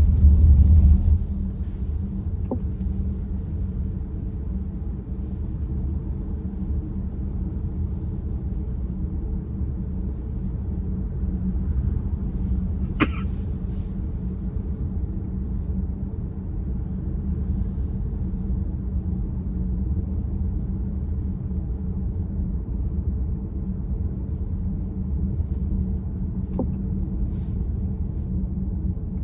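Steady low rumble of a car heard from inside the cabin, louder for the first second. A single sharp click sounds about 13 seconds in, with two fainter ticks, one near the start and one near the end.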